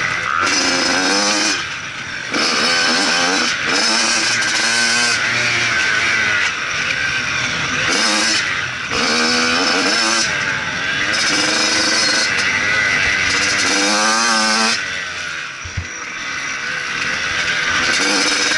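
Motocross bike engine revving hard, its pitch climbing through the gears and dropping again several times as the throttle is opened and shut. The engine eases off about 15 seconds in, with a short knock, then picks up again.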